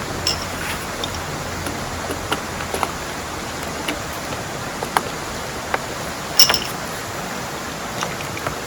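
Heavy rain falling steadily, with scattered sharp ticks of single large drops striking close by; the loudest is a brief double tick about six seconds in.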